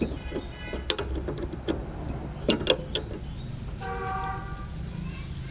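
Metal spanner clinking and knocking against a part while it is being unbolted, with several sharp clicks over the first three seconds. A short horn-like tone sounds about four seconds in.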